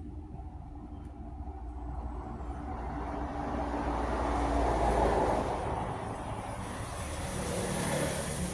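A motor vehicle passing by, its sound swelling to a peak about five seconds in and then fading, with a second, smaller swell near the end.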